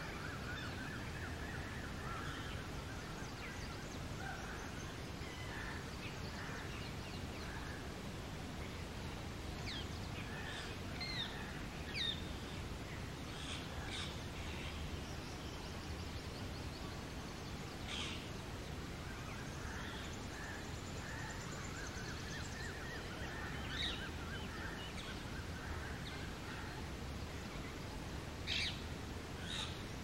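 Birds calling over a steady outdoor hiss. A rapid, twittering chatter runs through the first few seconds and again about two-thirds of the way through. Short sharp calls come now and then, the loudest near the end.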